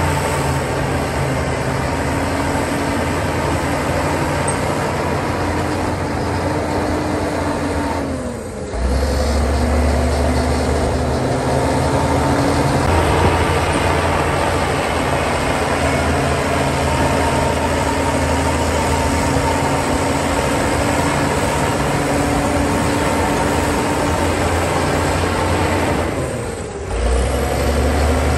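Heavy diesel engines of earthmoving machinery running steadily with a deep hum. One engine's note falls just before the sound dips briefly about eight seconds in, and it dips again near the end.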